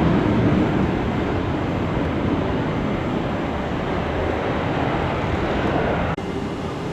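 Jet airliner engines giving a loud, steady rush of noise that drops abruptly about six seconds in.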